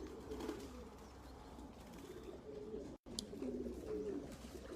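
Racing pigeons cooing faintly, several soft wavering coos overlapping. The sound cuts out for an instant about three seconds in.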